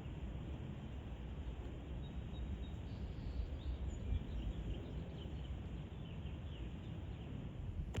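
Steady low outdoor rumble with faint bird chirps scattered through the middle.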